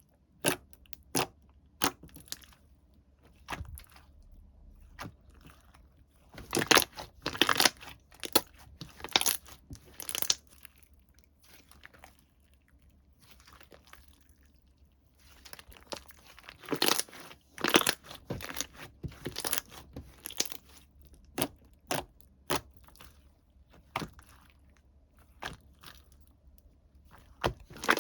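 Hands handling items from a slime box, making irregular crinkling, crunching and tearing sounds in bursts, with quieter pauses between.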